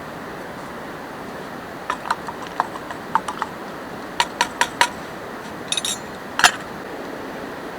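Steady hiss of rain with a campfire crackling: a scattered run of sharp pops and clicks from about two seconds in, the loudest single pop near the end.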